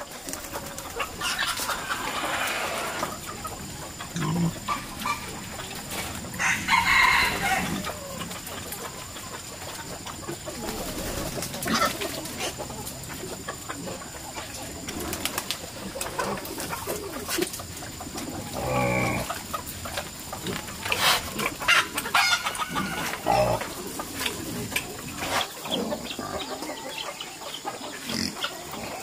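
Chickens clucking and calling at irregular intervals.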